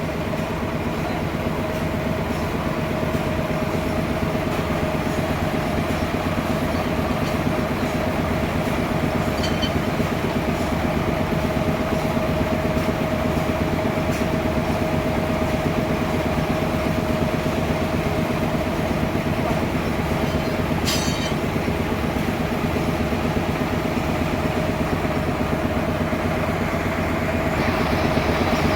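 Sawmill machinery running steadily: a constant whine over a dense, rhythmic clatter, with one brief sharp click about two-thirds of the way through.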